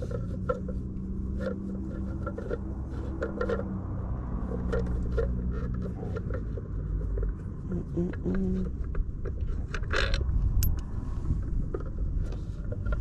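Hand tools clicking and tapping against a wheel's metal lug nuts and center cap, in short irregular clicks with a louder cluster near the end, over a steady low hum.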